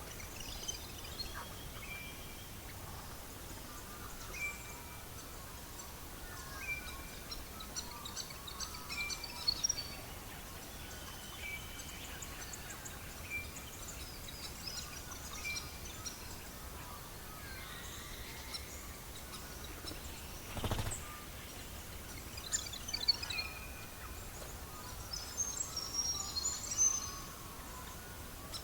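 Birds singing and chirping over a steady low hiss, one bird repeating a short high note every second or two while others twitter higher up. A single sharp crack comes about two-thirds of the way through.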